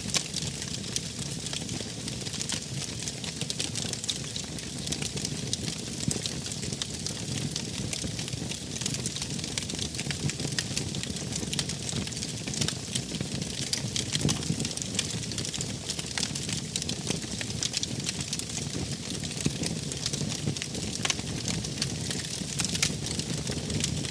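Wood fire burning: a steady low rush of flames with frequent sharp crackles and pops.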